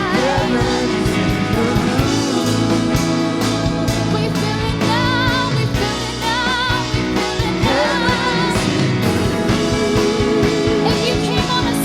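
Live worship band music with a steady drum beat under sustained chords, and a melody line with heavy vibrato wavering above it.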